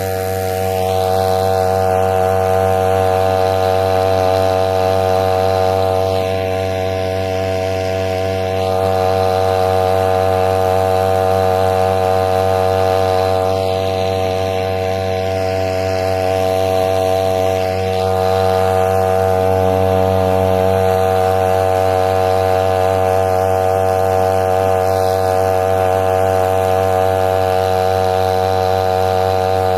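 A small engine running steadily at an even, constant speed for the whole time, dipping slightly in loudness twice.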